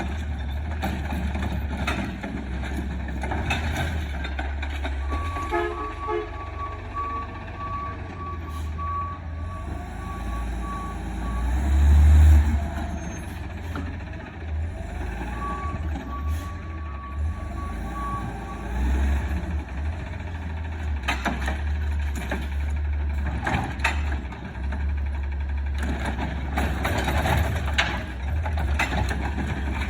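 Side-loader garbage truck running with a steady low engine rumble, its backup alarm beeping in two runs of evenly spaced single-pitch beeps. The engine surges loudly about halfway through, with a rising and falling whine over it, and a series of sharp knocks and clanks comes near the end.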